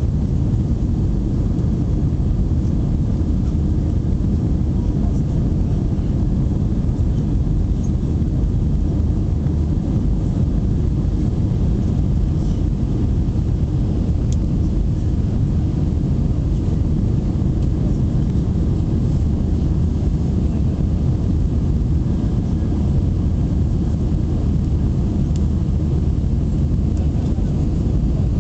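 Airbus A320 jet airliner cabin noise: a steady, even low rumble of the engines and airflow that holds constant without rising or falling.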